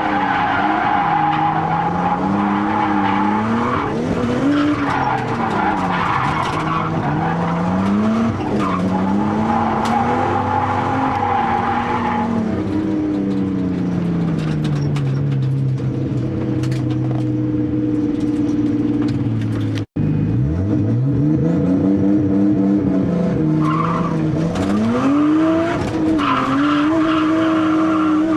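Nissan R32 Skyline's turbocharged RB20DET straight-six revving up and down through a drift, its turbo boost raised, with tyres squealing over the first twelve seconds and again near the end. The revs hold steadier and lower in the middle, and the sound breaks off for an instant about twenty seconds in before the engine revs up again.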